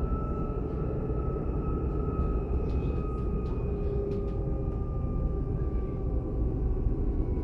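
Interior running sound of a DB class 422 electric multiple unit: steady rolling rumble with the traction drive's whine, several tones that slowly fall in pitch, and a few faint ticks in the middle.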